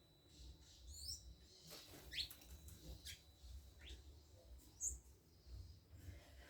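Faint, scattered high chirps of small birds, about five short calls, several sliding down in pitch, over a low rumble.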